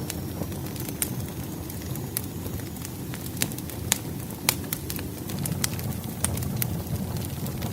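Wood fire burning: sharp, irregular crackles and pops over a low, steady rumble of flames.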